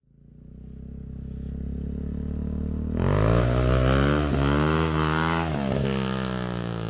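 Suzuki DRZ400S single-cylinder motorcycle engine running under throttle. It fades in, gets louder about three seconds in, and holds a steady note with two short dips.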